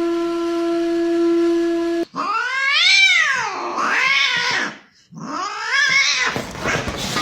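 A steady held note like a flute stops suddenly about two seconds in. A cat then gives two long, drawn-out meows, each rising and then falling in pitch.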